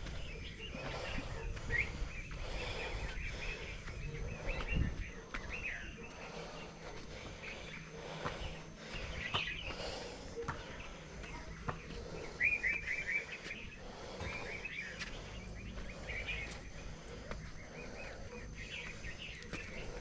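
Small birds chirping repeatedly, with a quick run of several chirps near the middle, over a steady low outdoor rumble.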